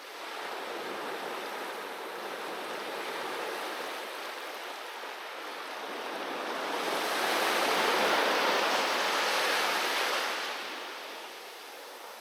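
Sea waves breaking on a beach: a steady wash that rises about a second in, swells to a louder surge of surf a little past the middle and dies away near the end.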